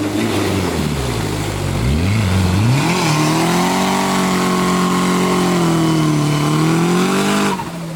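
Off-road 4x4 competition truck's engine revving: the pitch dips and climbs twice, then holds high for about four seconds before easing off near the end.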